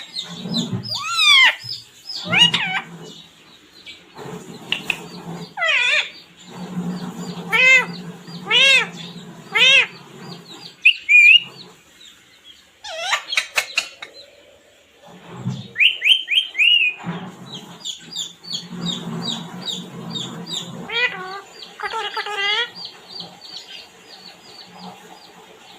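Pet parrot calling: repeated loud squawks and chirps in bursts, with short pauses between them and a run of quick, rapid chirps in the second half.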